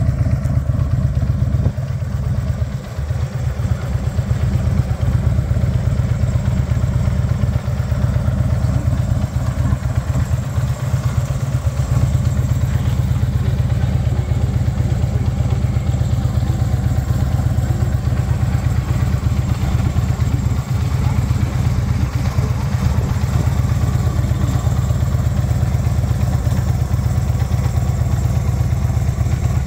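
Harley-Davidson Electra Glide Ultra Classic's air-cooled 45-degree V-twin engine idling steadily.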